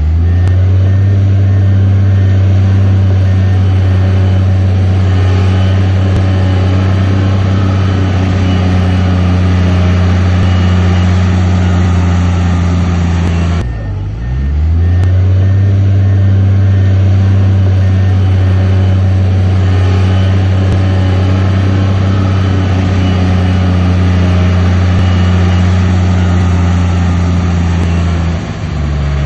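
Heavy earthmoving machine's diesel engine running steadily at high revs. About halfway through it drops briefly and its pitch climbs back up, and it shifts again near the end.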